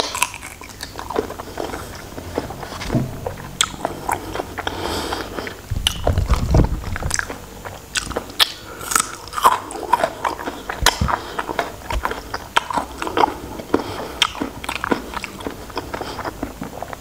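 Close-miked eating of raw shrimp: wet chewing and lip smacks, broken by frequent short, irregular clicks of biting.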